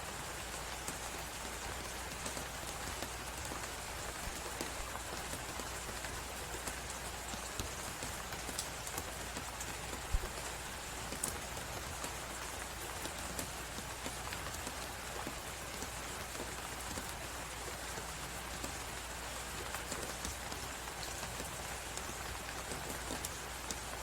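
Steady hiss of blizzard wind mixed with the scattered crackles and pops of a wood fire in a fireplace, with one sharper pop about ten seconds in.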